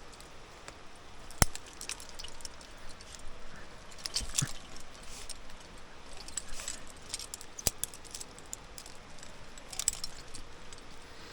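Metal climbing gear clinking and rattling as carabiners and a rappel device are handled while rigging a rappel, with short jingling rattles and two sharp metallic clicks, about a second and a half in and past the middle.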